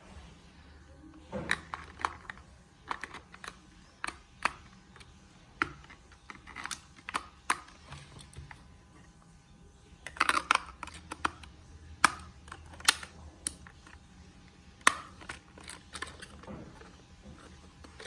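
Hands handling a toy remote-control car and its packaging: irregular sharp clicks and taps with light rustling, busiest about a second and a half in and again around ten to thirteen seconds in.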